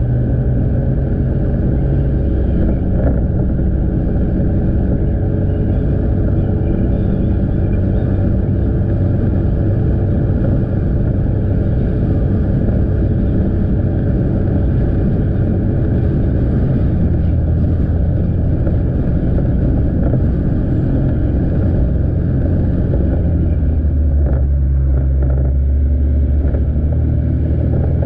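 Motorbike engine running steadily under way, heard from the rider's position, with road noise; the engine note changes for a few seconds near the end.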